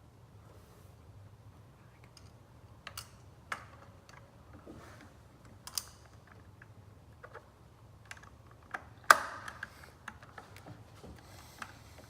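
Hand tools clicking and clattering against metal fittings while the intake hose clamp and airbox screws are worked loose: scattered light clicks and taps, with one sharp, louder clack about nine seconds in.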